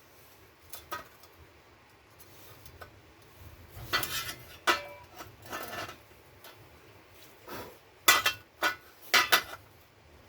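Metal tools and steel pieces clinking and clattering as they are handled on a workbench, with a few sharp knocks and brief ringing about four seconds in and a louder cluster of knocks near the end.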